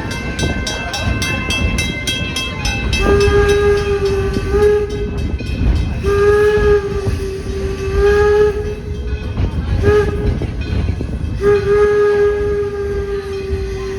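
Steam whistle of the 4-4-0 locomotive No. 7 sounding four blasts, long, long, short, long: the standard whistle signal for approaching a grade crossing. Before the whistle starts, a fast regular ticking or clanging comes from the moving train.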